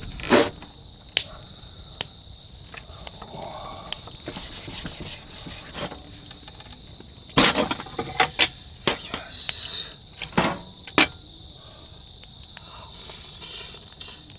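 Crickets chirping in a steady high-pitched chorus, broken by several sharp clicks and knocks, with a quick cluster of them around the middle.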